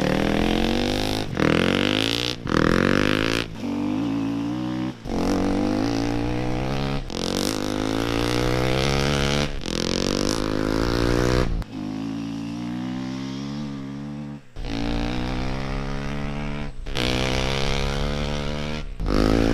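KTM 350 EXC-F single-cylinder four-stroke dirt bike accelerating hard, its exhaust note climbing in pitch again and again. It comes as a string of short clips, each one to three seconds long, cut one straight after the next, of the bike's exhaust as it is compared across muffler setups.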